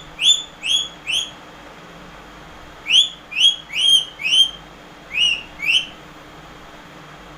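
Indian ringneck parakeet whistling a string of short, sharply rising notes. The notes come in three runs of four, four and two.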